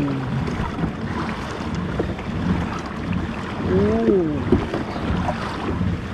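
Wind buffeting the microphone over choppy sea, with waves washing against a kayak in a strong swell.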